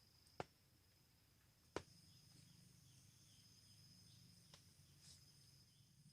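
Near silence with faint, steady high-pitched insect chirring, and two faint clicks about half a second and two seconds in.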